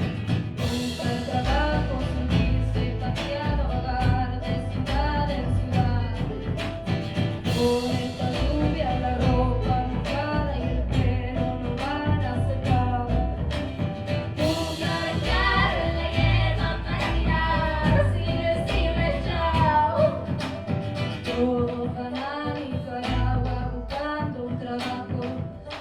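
A small band playing a song: a woman singing over acoustic guitar, double bass, banjo and percussion, with a few cymbal-like strikes.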